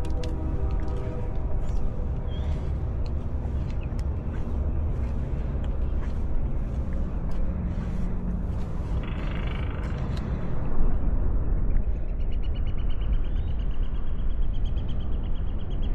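Wind buffeting the microphone as a steady low rumble, with sharp clicks over the first ten seconds. From about twelve seconds in, a high, rapidly pulsing tone joins.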